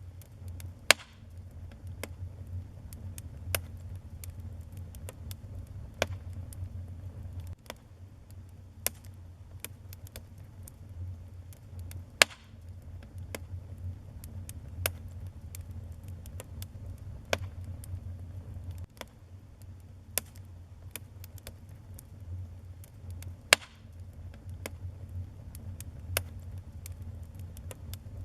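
Wood fire in a fireplace crackling: frequent small sharp pops and ticks, with a handful of much louder snaps spread through, over a low steady rumble of the burning.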